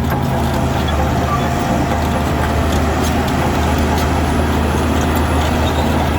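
Heavy diesel engine of construction machinery running steadily, with an even, low hum and rumble.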